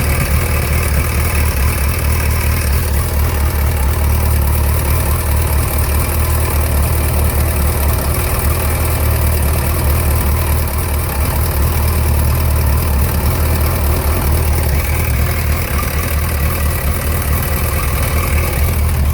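First-generation Suzuki Hayabusa's inline-four engine running steadily with an even, unchanging hum. It makes a noise that the owner is unsure about and asks whether it is something to worry about.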